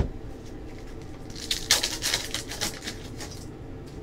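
Crackling and crinkling of a trading-card pack's wrapper being torn open, a dense burst of crackle lasting about two seconds from around a second and a half in.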